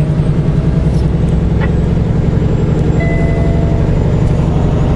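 Semi truck's diesel engine running steadily while driving, heard from inside the cab as a loud, low, even rumble.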